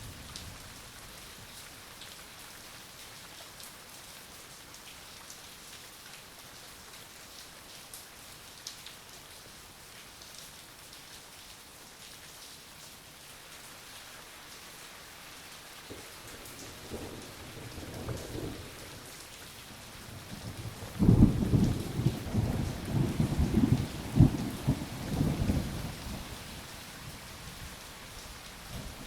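Steady rain falling. Thunder rumbles in past the halfway point and grows into a loud roll of thunder about two-thirds of the way through, which then fades back under the rain.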